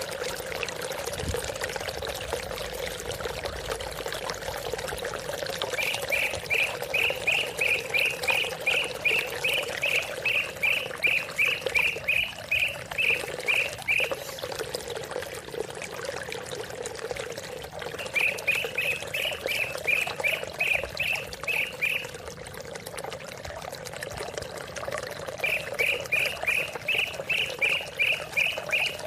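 Greater green leafbird (cucak ijo) calling in three runs of quick, evenly repeated chirps, about three a second. The calls sit over steady running water.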